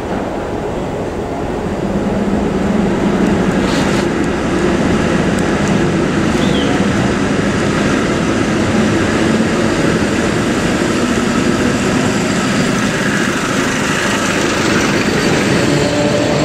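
Electric commuter train running on the station tracks: a steady rolling rumble with a low electric hum that grows louder about two seconds in.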